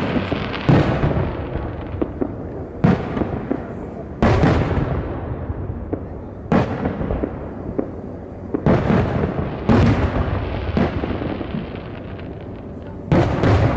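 Aerial firework shells bursting overhead: about eight sharp booms, irregularly spaced one to two seconds apart, each trailing off in a rolling rumble.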